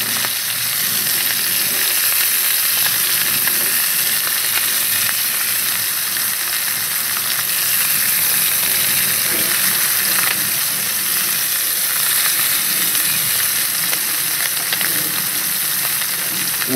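Chicken, zucchini and onions sizzling hard in a very hot wok over a wood-fired stove: a steady, loud frying hiss.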